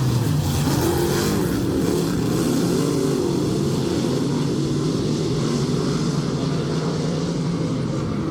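Several dirt-track race cars running laps, their engines rising and falling in pitch as they circle the oval.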